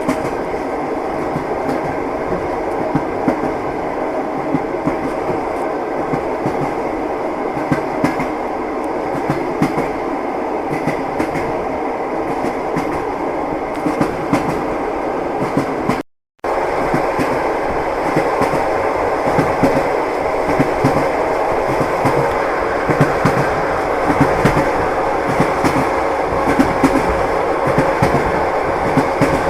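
Train wheels clattering over the rails: a steady rumbling run scattered with small knocks. About halfway through, the sound cuts out completely for a fraction of a second, then resumes a little louder.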